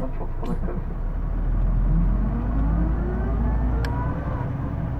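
Cabin running sound of a Hino Blue Ribbon II city bus pulling away under power: a heavy low rumble with a whine that rises steadily in pitch over a few seconds. This is the bus's peculiar drivetrain whine, which the recordist takes for a transmission noise that sounds like an automatic. A single sharp click comes near the end.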